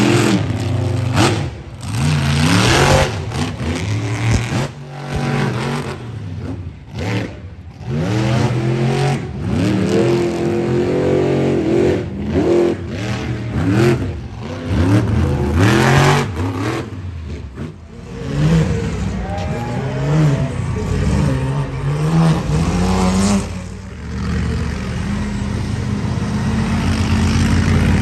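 Monster truck engine revving hard, its pitch climbing and dropping over and over as the throttle is blipped, with a few sharp bangs in between. The note steadies toward the end.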